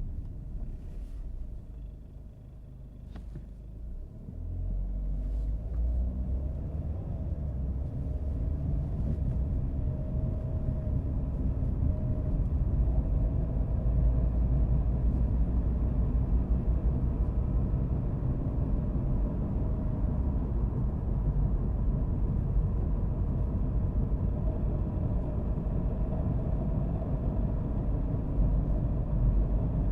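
Car driving, a steady low rumble of engine and road noise that drops for a couple of seconds early on, then grows louder after about four seconds and stays steady.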